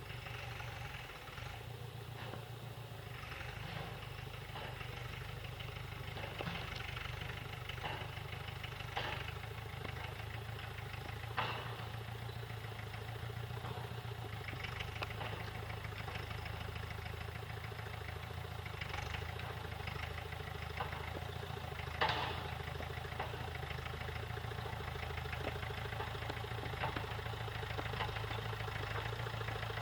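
Tractor engine running steadily under work, growing gradually louder, with a few sharp clanks, the strongest about eleven and twenty-two seconds in.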